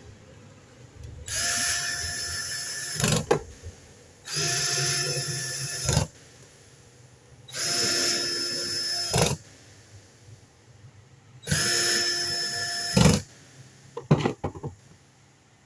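Small power tool motor whirring in four short bursts of about two seconds each, every burst ending with a sharp knock, followed by a few quick clicks near the end.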